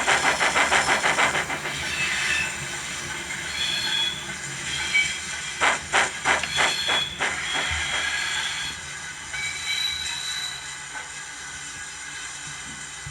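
Model steam locomotive sound from a LokSound v5 decoder playing LMS Coronation Class (Duchess) steam sounds through the loco's small speaker. Rapid exhaust chuffs fade out about a second and a half in, leaving steam hiss with brief high squeals, and a few more chuffs come around six seconds in before the sound slowly dies away.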